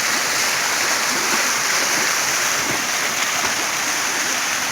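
Waterfall rushing close by: a steady, even noise of falling water.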